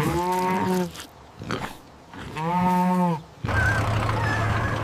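Two drawn-out animal cries, each under a second long and level in pitch, about two seconds apart. A little over three seconds in, a steady low engine hum starts abruptly.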